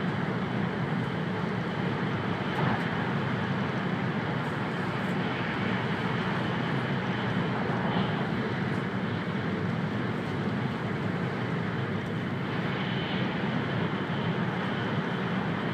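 Cabin noise inside an E2 series Shinkansen running at speed: a steady, unchanging noise with a low hum underneath.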